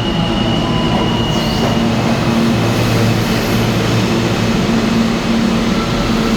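R160 subway train moving through the station, a loud steady running noise with several steady whining tones from its motors and wheels.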